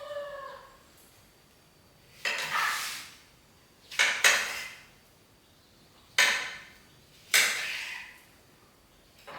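Kitchenware clattering: four short scraping knocks a second or two apart, the second one doubled.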